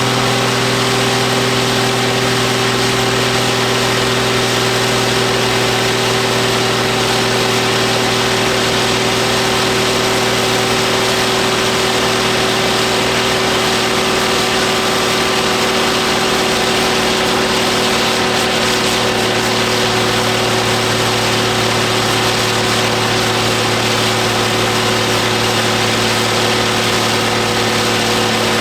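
Ford 7810 tractor's six-cylinder diesel engine running at high, steady revs while driving a PTO dynamometer. It runs as an even, constant tone with no change in speed.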